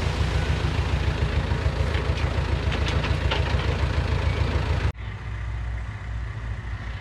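Heavy diesel engine of an earthmoving machine running with a fast low throb, with a few short metallic clicks about two to three seconds in. About five seconds in the sound cuts off abruptly and gives way to a quieter engine running.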